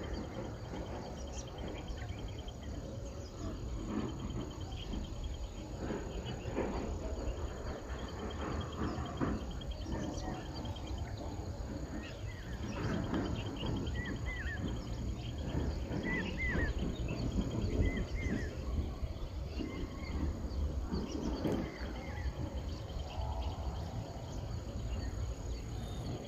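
Outdoor nature ambience: an insect trilling steadily under a low rumble of wind on the microphone, with a few short chirps about halfway through.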